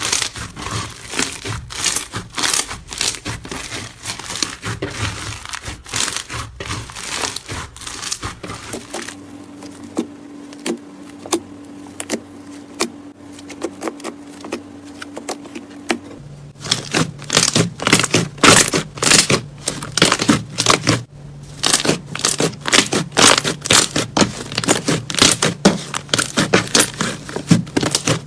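Slime being squeezed and worked by hand, making dense crackling and popping. There is a quieter stretch in the middle with only sparse pops over a faint steady hum, then louder, denser crackling again.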